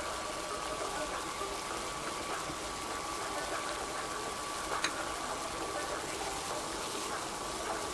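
Chicken masala sizzling and bubbling in a pan: a steady hiss, with a faint steady whine underneath and a single sharp click about five seconds in.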